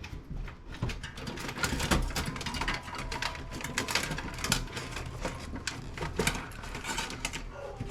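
Irregular clicking and clattering of metal and plastic parts as a desktop computer is taken apart by hand.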